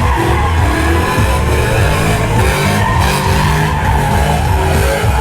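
Pickup truck engine revving hard, its pitch rising and falling, while the rear tires spin and squeal through a slide or burnout.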